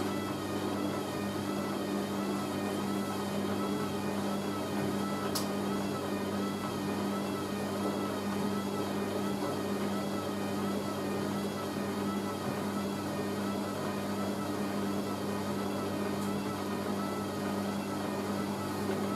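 Hoover A3060 washing machine motor turning the drum at a steady speed with a towel load that is unbalanced. There is a steady hum under a motor whine that wavers regularly in pitch, a bit more than once a second, as the lopsided load goes round. There is a single click about five seconds in.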